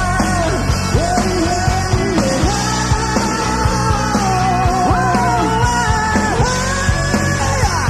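Live rock band playing: steady drum hits and bass under a sliding, bending lead melody line.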